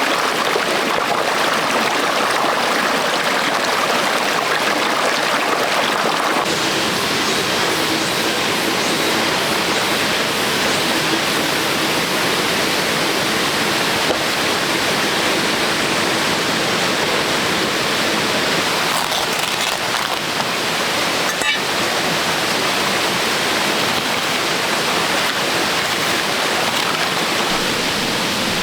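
Running water, a steady rushing like a stream or small cascade, turning brighter in tone about six seconds in.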